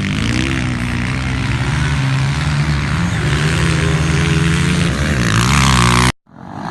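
Several motocross bikes racing together, their engines revving up and down over one another; the sound cuts off abruptly about six seconds in.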